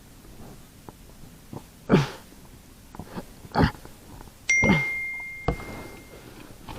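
A few sharp knocks and clatters of handling, and about halfway through a single bright metallic ding that rings on and fades over a second or so.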